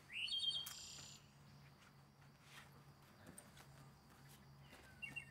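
A bird chirping: a short high call right at the start, then a few faint chirps near the end, over a faint steady low hum.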